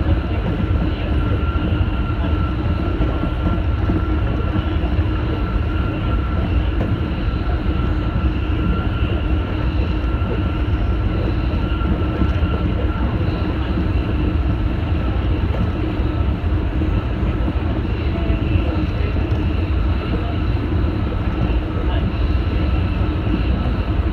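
Tsukuba Express electric commuter train running steadily across a steel truss bridge, heard from inside the train: a continuous low rumble of wheels on rail with a thin steady high tone above it.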